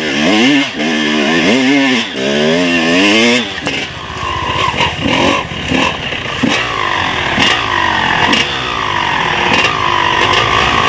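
Motocross motorcycle engines revving, their pitch swinging up and down with the throttle. About three and a half seconds in, this gives way to higher-pitched engine sound that dips and rises over and over, like bikes working around the track, with scattered sharp clicks.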